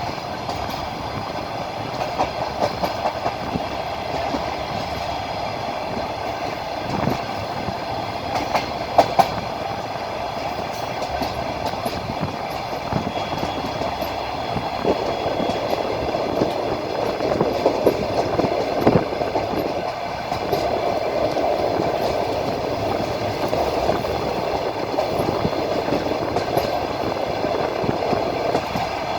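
Wheels of a moving train clacking over rail joints, heard from a train window over a steady running rumble, with a sharper pair of knocks about nine seconds in.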